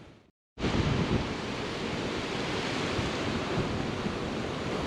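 Strong wind buffeting the microphone: a steady, even rush of noise with a low rumble, starting after a brief dropout of silence near the start.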